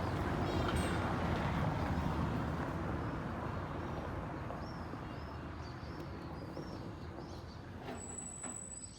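A motor vehicle's rumble, loudest at first and fading steadily as it moves away, with small birds chirping.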